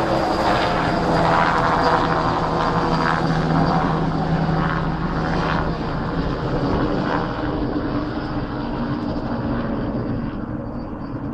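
Bell 206 JetRanger helicopter flying away: a steady turbine-and-rotor drone that fades, losing its higher pitches toward the end.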